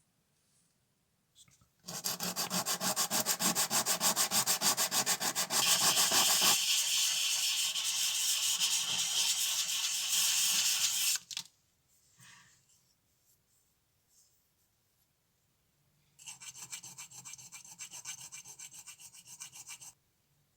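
Rapid back-and-forth rubbing strokes, several a second, as in hand sanding or scrubbing a small part. One long bout turns thinner and higher partway through; after a pause a second, quieter bout follows near the end.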